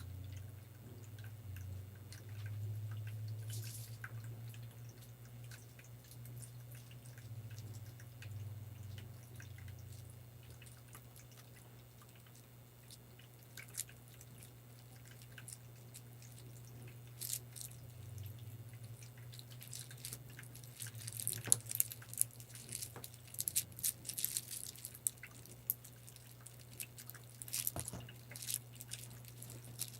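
Water dripping and trickling over a low steady hum, with a growing run of sharp clicks and taps in the second half.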